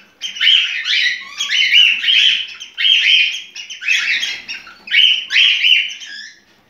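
Male cockatiel singing its courtship song: a warbling, chirping phrase repeated about four times, fading out near the end.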